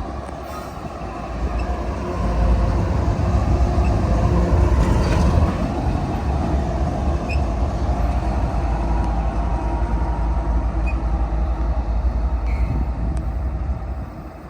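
A train passing close by: a loud, steady rumble of engines and wheels on the rails that swells a couple of seconds in and drops off near the end.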